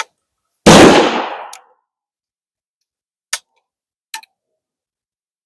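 A single shot from a reproduction 1863 Sharps .52 percussion carbine firing a black powder load (60 grains of 3F in a mulberry paper cartridge): one loud report under a second in that dies away over about a second. A few small clicks follow.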